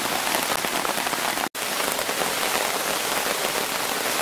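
Steady rain falling on a tarp shelter, over a rushing rocky jungle river. The sound drops out completely for a split second about a second and a half in.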